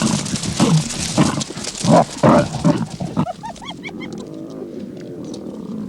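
Hyenas and lions clashing: a run of loud, harsh cries and growls, then, about three seconds in, quieter short rising-and-falling calls over low growling.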